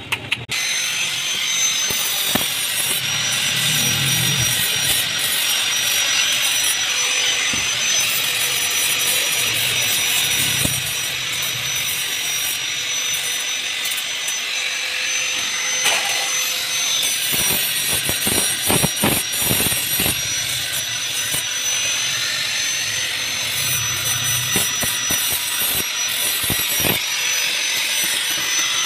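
Electric power tool working steel, running steadily with a high whine. Between about 16 and 20 seconds in there is a run of sharp clicks.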